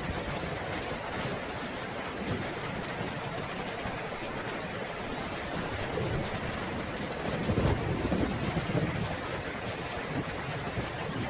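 Steady rain falling, with a low roll of thunder swelling and fading about two-thirds of the way through.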